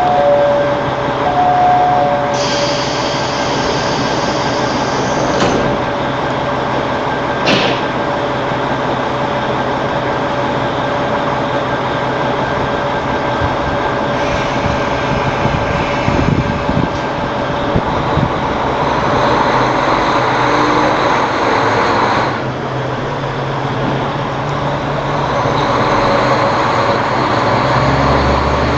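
A train running, heard from inside the carriage: a steady rumble of wheels and car. A high screech comes in for about three seconds near the start, and there is a sharp click a little later.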